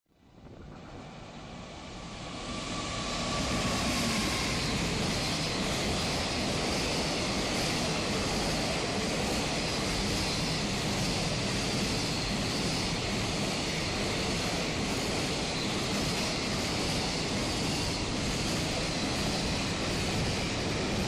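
A long freight train rolling past at speed, its wheels making a steady rushing clatter on the rails. It builds up over the first few seconds as the train arrives, then stays at full loudness as the wagons go by.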